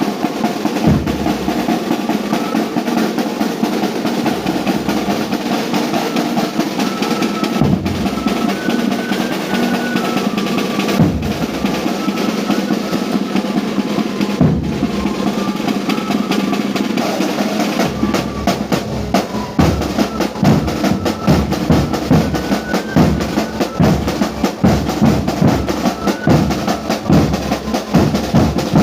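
Live band of accompanying musicians playing: drums beat under a high stepped melody, and the drumming grows stronger and sharper a little past halfway.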